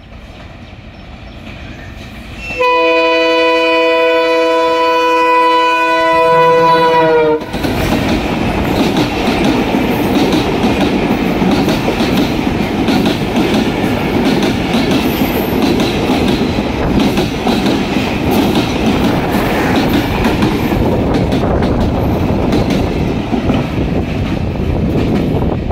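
Diesel-hauled intercity express train: the locomotive's multi-tone horn gives one long blast of about five seconds, dipping slightly in pitch as it cuts off. The locomotive and its passenger coaches then pass close at speed, wheels clattering over the rail joints.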